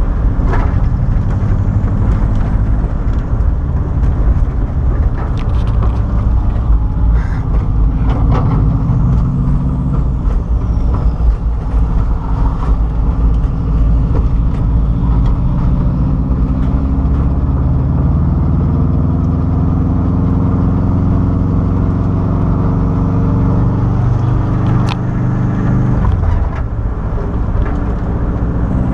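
Turbocharged Subaru WRX flat-four engine in a VW bus, heard from inside the cab while driving, over road and wind noise. The engine note climbs slowly for much of the stretch, then falls suddenly near the end.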